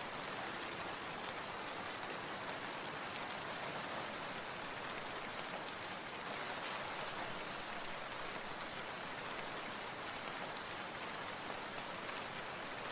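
Steady rain falling, an even hiss of many small drops without letup.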